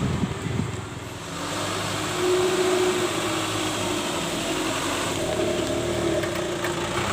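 Truck engine running steadily; it gets a little louder about two seconds in.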